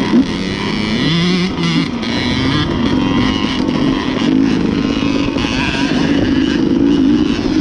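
Dirt bike engine running, its pitch rising and falling with the throttle.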